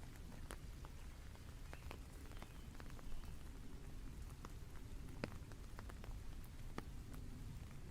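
Rain falling, with separate drops ticking sharply here and there over a steady low rumble.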